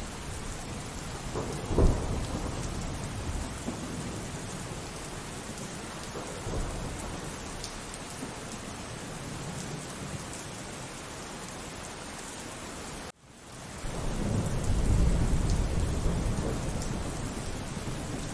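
Steady rain falling with thunder: a sharp crack of thunder about two seconds in, and after a momentary gap near the end a low rumble of thunder rolls in and swells.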